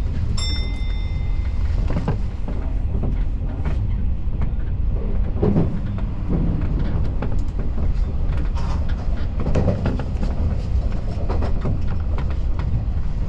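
Keio Inokashira Line electric train running: a steady low rumble of wheels and running gear, with scattered clicks from the wheels on the rails. A brief high electronic tone sounds about half a second in.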